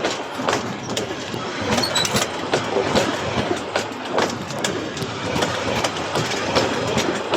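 Train wheels clattering over railway points and crossings as the train changes tracks: an irregular run of sharp clacks and knocks over a steady rolling rumble.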